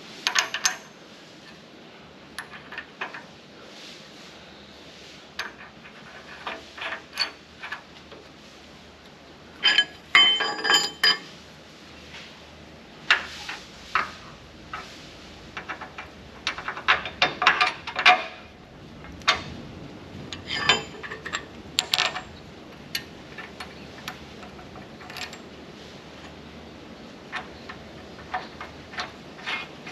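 Scattered metallic clinks, knocks and clatter of hand tools and steel parts being handled, with a short spell of ringing metal about ten seconds in.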